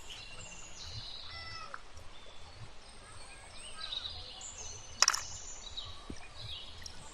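Several birds chirping and calling over a steady outdoor background hiss, with one sharp knock about five seconds in.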